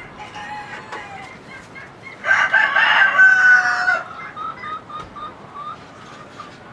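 A rooster crows once, loud and about a second and a half long, starting about two seconds in, with chickens clucking around it in short repeated notes.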